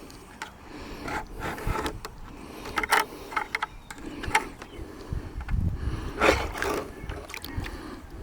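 Irregular clicks, knocks and light rattles of hard objects being handled, a dozen or so separate strikes with the loudest near the end.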